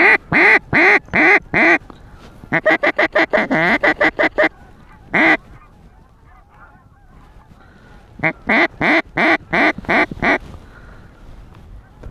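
Hand-blown waterfowl call worked by a hunter close to the microphone: loud repeated honking quacks in bursts. Five notes, then a fast run of about ten, a single note, and after a pause about seven more.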